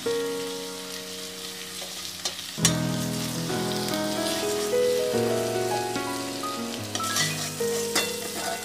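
Background instrumental music with held chords, over a steady sizzling hiss of vegetables frying in hot oil in a wok. A few knocks of a steel spatula against the wok and jar, the clearest about two and a half seconds in, as the fried onions, tomatoes and carrot are scooped into a mixer-grinder jar.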